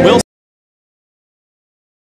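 Dead silence: the audio cuts out abruptly a fraction of a second in, ending a word of commentary spoken over race noise.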